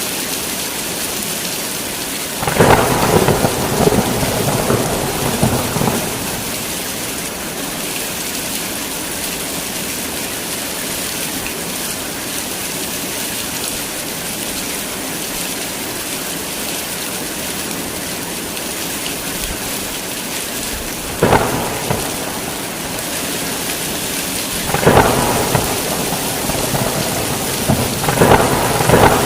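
Heavy rain falling steadily, with thunder: a long crackling peal a few seconds in, a sharp crack past the middle, and two more rumbling peals near the end.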